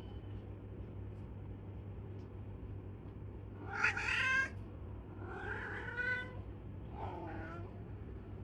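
A domestic cat meowing three times. The first call is the loudest and highest, and the last is lower.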